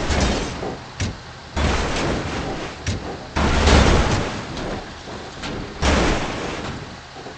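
A series of sudden rumbling, crashing noises, each starting abruptly and fading over a second or two, about every two seconds, with short clicks in between.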